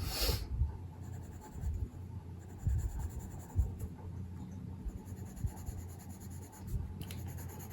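Watercolour pencil scratching on paper in light colouring strokes, with a few soft knocks as the pencil and page are handled, over a low steady hum.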